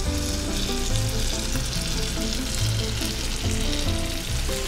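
Chicken gizzard and chicken breast bopis, coated in coconut-milk sauce, sizzling steadily in hot melted butter on a cast iron skillet as it is tipped in and settles.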